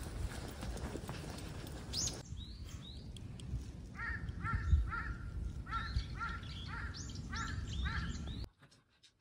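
Wild birds calling outdoors: about two seconds in a single high call sweeps downward, and from about four seconds a bird gives a run of some eight short, harsh calls, with higher sweeping calls above them. A low rumble lies underneath, and everything cuts off shortly before the end.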